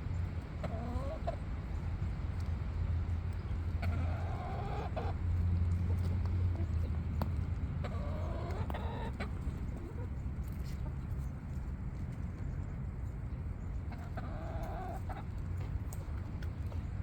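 Chickens clucking, about four short calls a few seconds apart, over a steady low hum.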